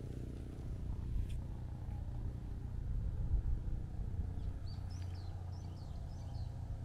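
Steady low rumble, with a small bird chirping a quick run of high notes about four and a half seconds in.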